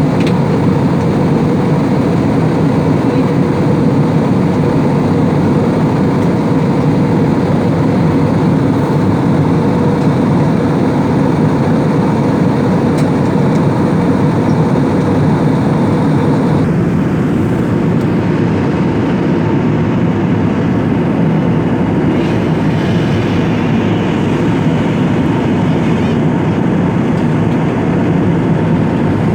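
Airliner cabin noise in flight: a steady, loud roar of engines and airflow. The higher hiss thins slightly a little past halfway.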